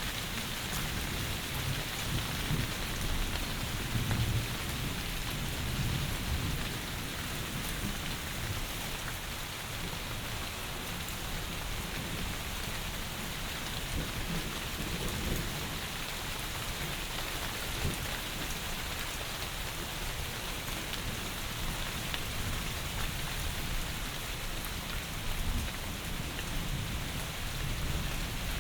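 Heavy rain falling steadily, an even hiss. Low rumbles of distant thunder swell a few seconds in and again near the end.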